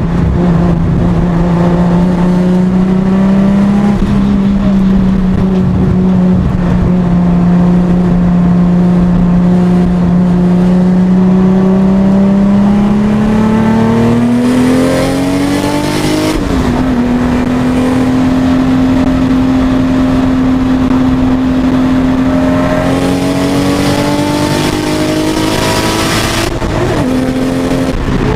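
Toyota Supra's engine heard from inside the cabin while lapping a circuit. It holds a steady pitch at first, climbs under acceleration and drops sharply about sixteen seconds in as it shifts up. It then holds a higher steady pitch, climbs again and falls back near the end.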